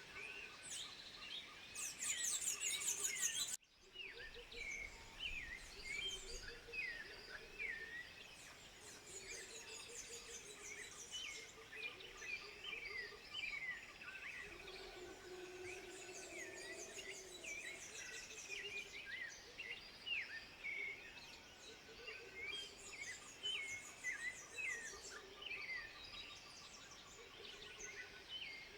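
Outdoor wildlife chorus: many short, quickly sweeping chirping animal calls overlapping throughout, with a few bursts of high, insect-like buzzing. The audio briefly drops out a few seconds in.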